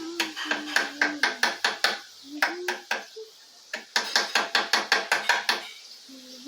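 Rapid sharp tapping, about six hard strikes a second, in two runs with a short pause between. Someone hums along under the first run.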